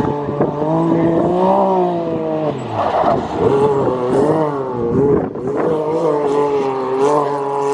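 Rally car's engine revving hard during a dirt-course bracket race, its pitch rising and falling repeatedly as the driver works the throttle and gears, with a rougher burst about three seconds in.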